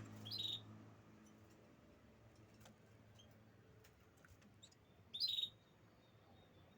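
Caged canary giving two short, high chirps, one at the very start and one about five seconds in, with faint small clicks between them.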